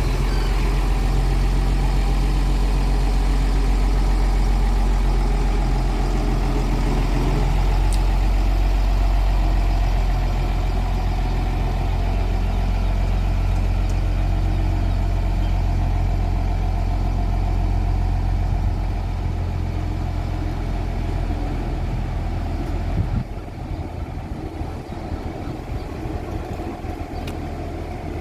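Heavy vehicle machinery running with a steady low hum, which cuts off abruptly about 23 seconds in and leaves a quieter rumble.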